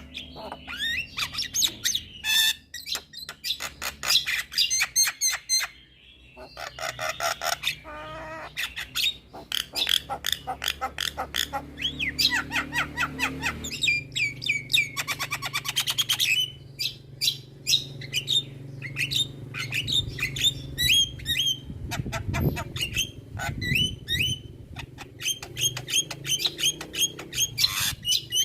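Javan myna (jalak kebo) singing a long, varied song: rapid strings of clicks, harsh squawks, fast trills and whistled phrases with short pauses, loaded with the mimicked calls of other birds.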